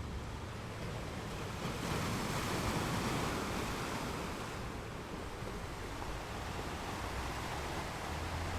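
Sea waves breaking and washing on a shore, one wave swelling about two seconds in and easing off after a few seconds, over a steady low rumble.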